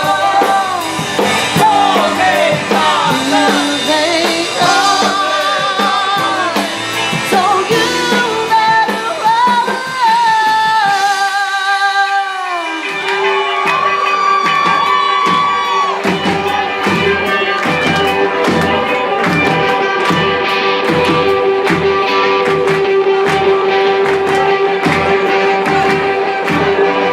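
Live band playing with a lead vocalist singing. Just before halfway the bass and drums drop out for a moment. Then a long held note comes in over a steady, driving drum beat.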